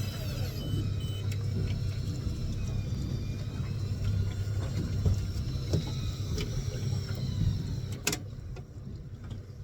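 Fishing boat's engine running steadily as a low hum, with scattered small knocks and a sharp click about eight seconds in.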